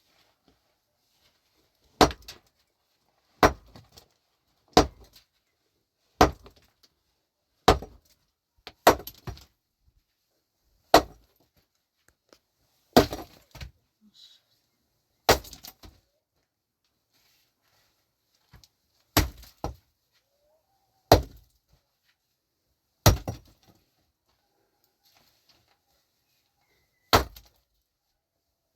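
A pickaxe striking stony ground in slow, uneven blows, about thirteen strikes one to four seconds apart, each followed by a brief rattle of loosened bits.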